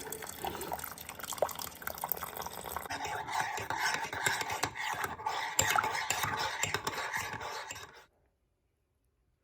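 A spoon stirring in a mug of hot drink, clinking and scraping against the sides in quick, uneven strokes; it cuts off suddenly about eight seconds in.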